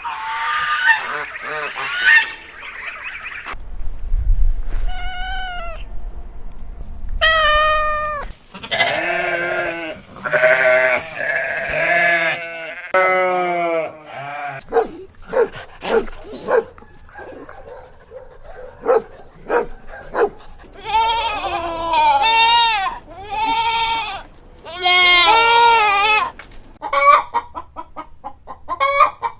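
Goats bleating, a series of loud quavering calls of varying length from more than one animal.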